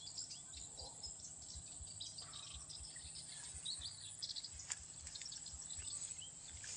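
Small birds chirping in many quick, short notes over a steady high insect buzz, faint.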